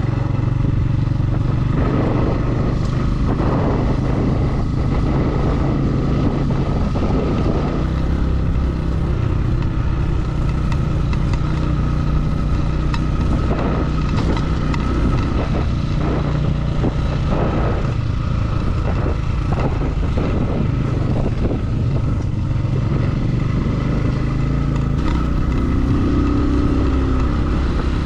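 Motorcycle engine running at a steady pace while riding on a dirt road, under a constant rushing noise, with scattered short knocks and rattles.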